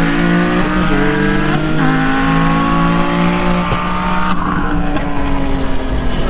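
A car engine at full throttle, heard from inside the cabin, with wind and road noise. Its pitch climbs slowly in each gear and steps down at upshifts about a second in, near two seconds, and again a little after halfway. Past two-thirds of the way through, the throttle is lifted and the engine drops to a quieter, steadier run.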